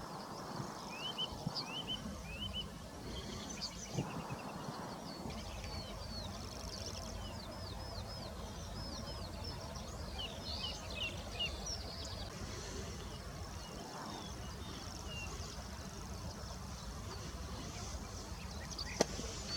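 Birds calling outdoors: many short chirps and quick runs of hooked, slurred notes, over a steady low rumble.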